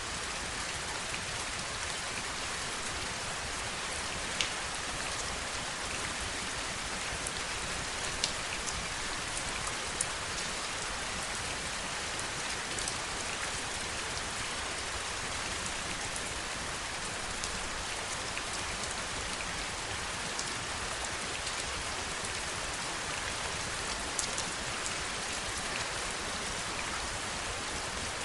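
Heavy rain falling steadily, with scattered sharper drop ticks standing out now and then.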